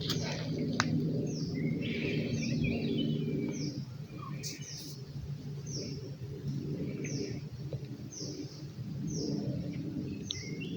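Birds calling outdoors: one bird repeats a short, high, falling note about once a second, with other scattered chirps around it. A low steady hum runs underneath, fading after about four seconds and returning near the end.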